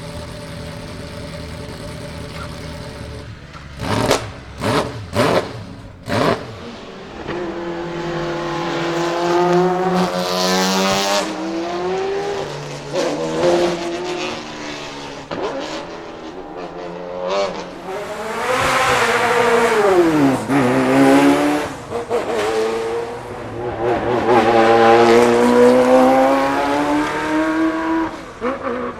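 Ferrari F40 LM's twin-turbo 2.9-litre V8 idling, then blipped sharply four times, then revving and accelerating hard, its pitch climbing through several gear changes, dropping steeply about two-thirds in and climbing again to the end.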